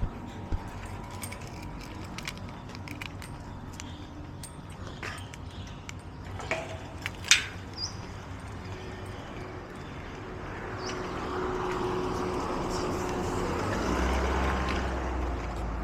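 Light scattered clicks and jingles, with one sharp click about seven seconds in. From about ten seconds a passing vehicle's noise swells and fades away over about five seconds.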